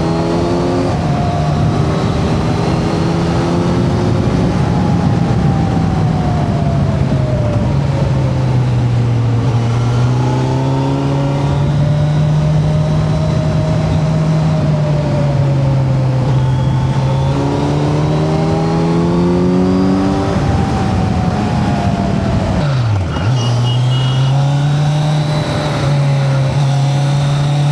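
Kawasaki Z900's inline-four engine running on the road, revs rising and falling repeatedly as it pulls and eases off, with a sharp drop and quick recovery in revs a little over twenty seconds in. Steady wind rush on the microphone.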